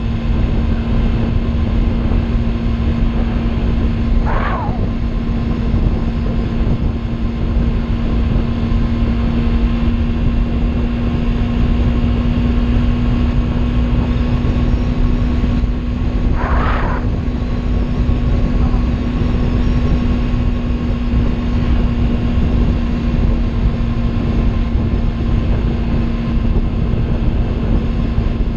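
Kawasaki Ninja 300 parallel-twin engine running at a steady cruise, holding one even pitch, under heavy wind rumble on the rider's microphone. Two brief higher-pitched sweeps come through, about 4 seconds and 17 seconds in.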